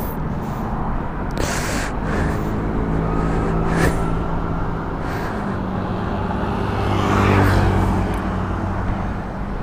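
Road traffic: a motor vehicle's engine running steadily, growing louder to a peak about three quarters of the way through and then easing off, like a vehicle passing.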